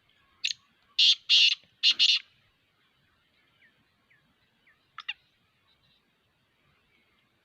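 Black francolin calling: a harsh, rasping phrase of one short note followed by four loud grating notes in two pairs, then a faint short note a few seconds later.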